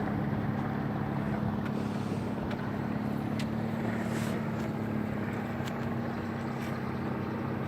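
Boat engine running steadily at a constant low pitch, with a few faint ticks.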